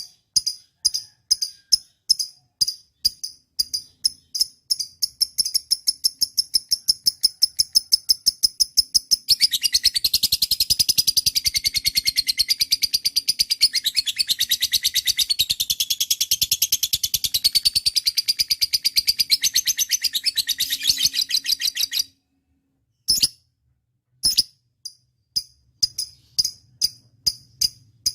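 Lovebird calling: a series of short, high chirps, at first about two a second and then faster, that about nine seconds in breaks into a long unbroken chattering trill. The trill cuts off abruptly some twelve seconds later, and after a short pause with two clicks the repeated chirps resume.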